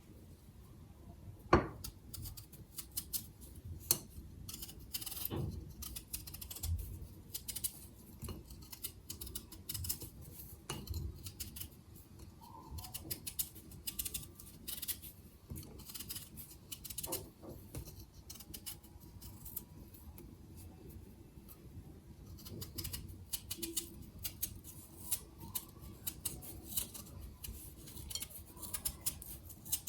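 Household handling sounds of dishes and utensils: irregular small clicks, taps and light clinks, with a sharper knock about one and a half seconds in.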